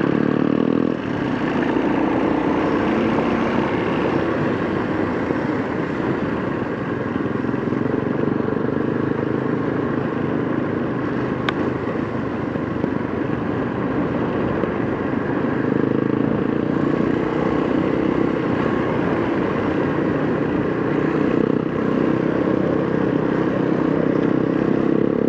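Kawasaki KLX230 dirt bike's single-cylinder engine running steadily as the bike rides up a mountain road. A single sharp tick is heard about halfway through.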